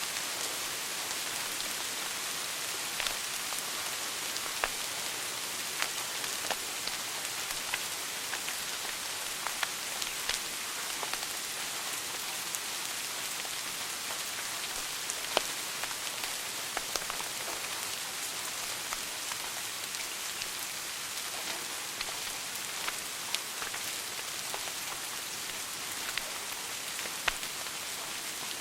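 Wood fire burning in a fireplace: a steady hiss with irregular sharp crackles and pops, a few louder snaps scattered through.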